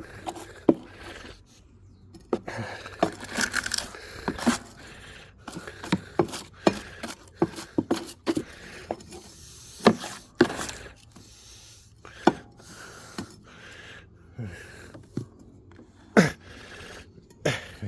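Irregular scraping and sharp knocks of hand cleaning on a lawnmower, working caked wet grass clippings off it. Several louder knocks stand out, about ten seconds in and twice near the end.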